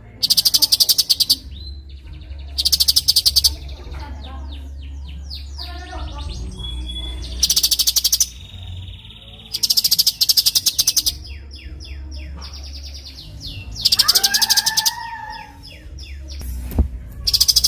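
Cucak cungkok bird singing: about six loud bursts of rapid-fire, very high chattering, each about a second long ('tembakan rapet', tight shots). Softer chirps and quick descending whistles fill the gaps between them.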